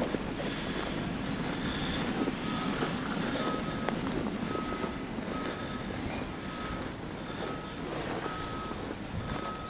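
Vehicle backup alarm beeping at a steady pitch, about once every 0.7 seconds, starting a couple of seconds in, over low rumbling noise.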